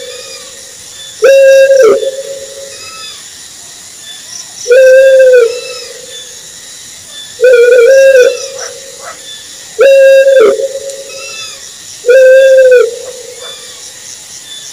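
Owl hooting: five loud single hoots, each under a second and held on one pitch, about every two and a half seconds, over a steady hiss.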